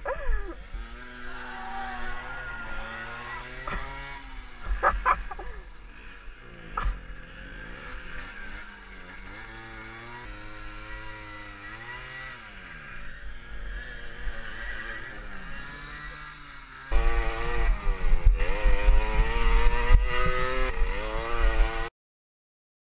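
Small two-stroke motorcycle engines revving up and down in uneven bursts, getting much louder about three-quarters of the way through, then cutting off suddenly near the end.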